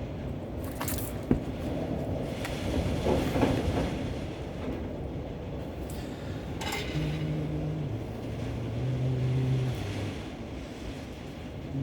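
Steady rushing wind noise with a few light clicks and taps from hand work. From about seven seconds in, a low voice hums a few held notes that step up and down.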